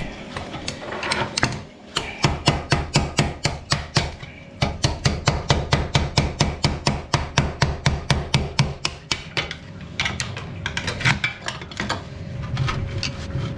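Rapid, even hammering, about five blows a second, with a brief pause about four seconds in. The run stops around ten seconds in and gives way to a few scattered knocks.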